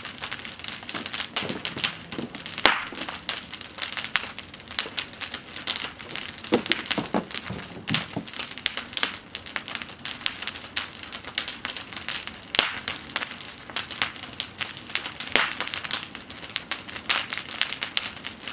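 Bonfire crackling, with a dense run of irregular snaps and pops.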